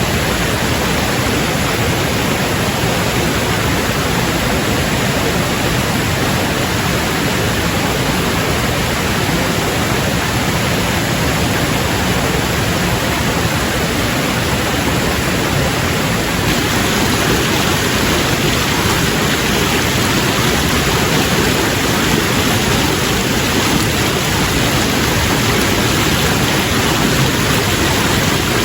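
A loud, steady, even rushing noise with no rhythm or breaks.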